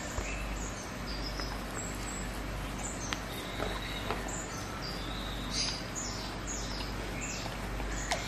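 Small birds chirping in the background: many short high chirps, with a run of quick falling notes a little past the middle. A few sharp clicks from eating and chewing sound over a low steady hum.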